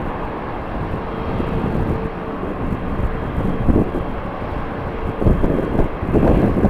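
Strong wind gusting across the microphone, with a faint steady whine from a jet airliner's engines underneath that fades out near the end.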